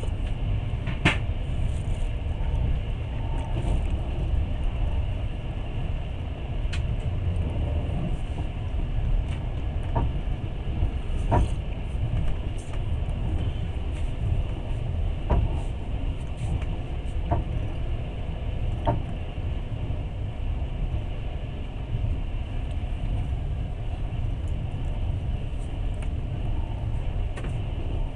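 Passenger train running, heard from inside a carriage: a steady low rumble with scattered sharp clicks and knocks at irregular intervals.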